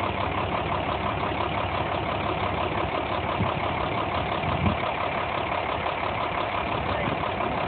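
Kenworth T800 dump truck's diesel engine idling steadily with an even pulse, with two brief low thumps in the middle.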